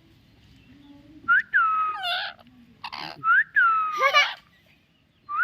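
A pet talking parrot whistling twice, each whistle jumping up sharply and then gliding slowly down before breaking into a short warble, with a brief harsh screech between the two.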